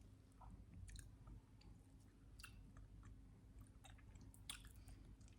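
Faint close-up chewing of a syrupy sandwich: scattered soft wet mouth clicks and smacks over a low steady hum.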